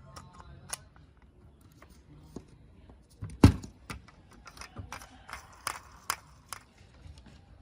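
Scattered light clicks and taps, with one sharper knock about three and a half seconds in.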